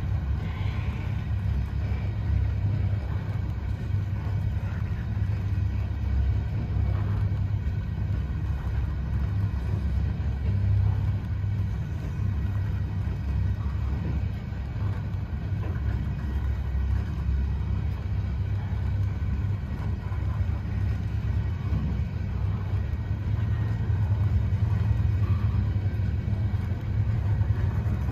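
Steady low rumble of freight-train covered hopper cars rolling past, steel wheels running on the rails.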